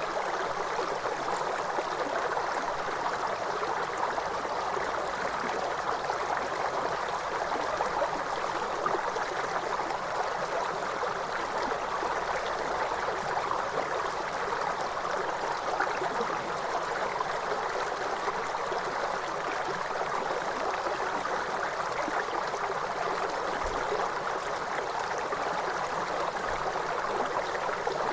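Waterfall: a steady, even rush and splash of falling water that holds unchanged throughout.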